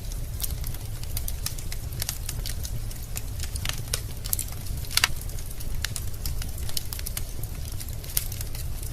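Wood fire in a fireplace crackling, with irregular sharp pops and snaps of varying loudness over a steady low rumble of the burning logs; the loudest pop comes about five seconds in.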